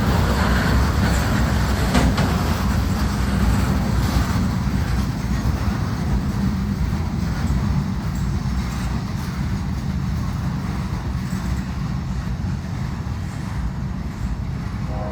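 Freight train rolling past: a steady low rumble of steel wheels on the rails, with a few sharp clanks in the first few seconds, easing off slightly toward the end.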